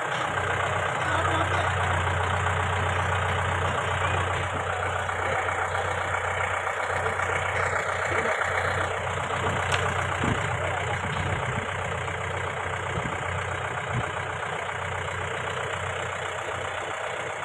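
Mahindra Bolero's engine running steadily off-road, with a few short knocks from the vehicle.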